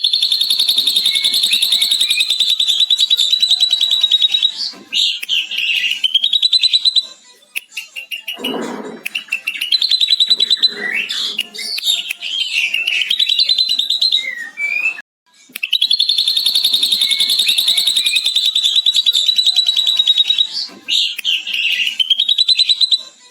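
Ashy drongo singing a lovebird-style long chatter: a fast, high, unbroken trill lasting about four seconds, then a mix of short whistles and rasping calls, and the long trill again past the middle.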